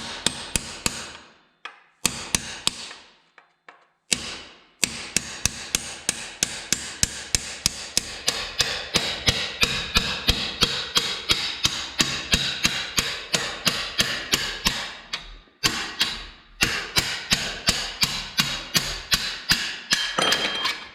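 Hammer blows on metal, driving a stuck pitbike rear axle out: sharp ringing strikes about two to three a second, in several runs with short breaks between them.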